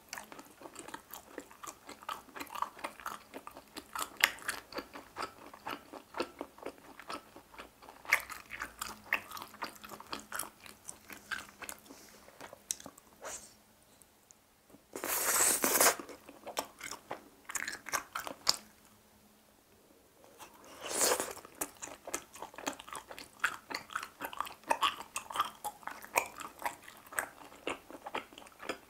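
Close-up chewing and biting of grilled chicken-heart skewers: rapid wet clicks and smacks of the mouth on the chewy meat. Two louder noisy rushes break in, one about halfway through and one a few seconds later.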